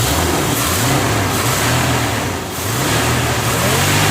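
350 V8 engine with an Edelbrock 750 CFM carburetor being revved from the throttle, its pitch rising, falling about halfway through and climbing again, through dual glasspack exhaust.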